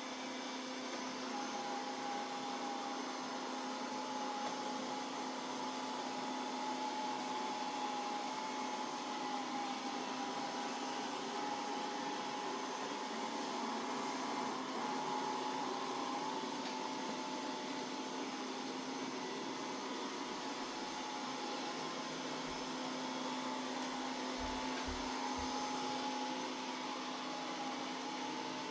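Mova Z60 robot vacuum-mop running during a combined vacuum and mop pass: a steady suction fan with a constant whine. A few faint low knocks come near the end.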